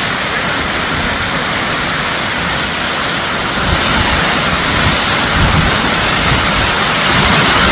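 Waterfall crashing down into a creek, a loud steady rush of falling water with some low gusts in the second half.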